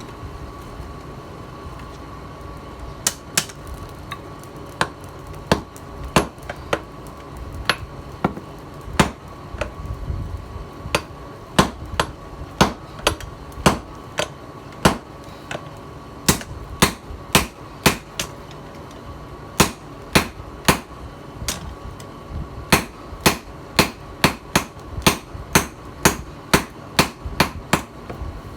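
Hand hammer striking steel in a long series of sharp blows, about one to two a second in runs, starting about three seconds in, while the knife blade is forged from a tiller blade. A steady faint hum with a thin whine runs underneath.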